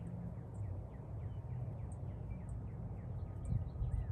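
Many small birds chirping and twittering in short, quick calls over a steady low rumble.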